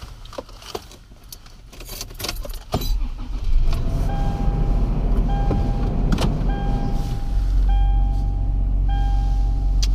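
Keys jingling and clicking, then a car engine starts and runs at a steady idle. About a second later the car's warning chime begins beeping in long, evenly repeated tones over the engine.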